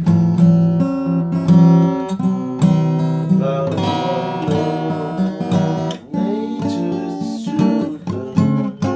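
Acoustic guitar music: plucked notes and strummed chords played in a steady run.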